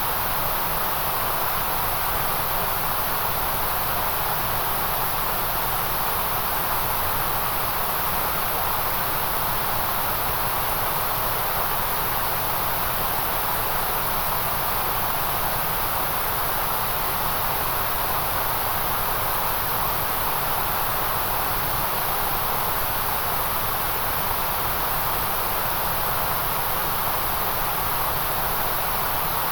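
Continuous white noise: a steady, unchanging hiss, brightest in the very high treble and around the middle of the range.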